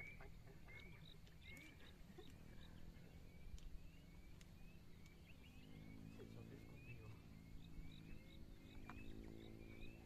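Faint short rising chirps of a wild bird, repeated about every half second, over a low rumble. A low steady hum comes in about halfway through.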